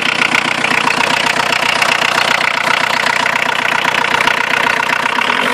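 Škoda Felicia 1.9D naturally aspirated diesel engine idling cold at −2°C, with an even rhythmic pulse. The engine is running with one bad glow plug.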